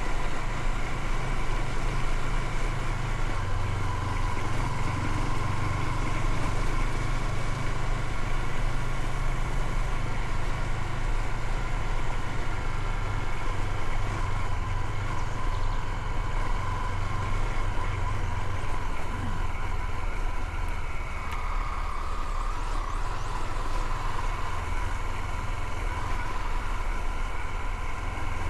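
Motorcycle engine running steadily while riding, with a constant low drone.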